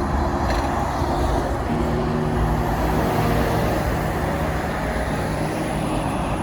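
Heavy truck driving past, a steady mix of diesel engine and tyre noise.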